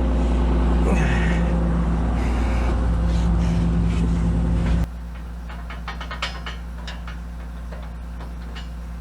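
Diesel engine of a Kobelco SK250 LC excavator running steadily with a deep hum. About five seconds in, the sound drops suddenly to a quieter, steady hum, with a few light clicks and knocks soon after.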